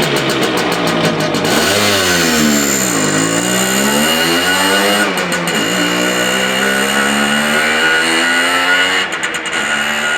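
Simson Schwalbe moped's 50 cc single-cylinder two-stroke engine running and being revved, its pitch dropping and climbing again a few times before settling.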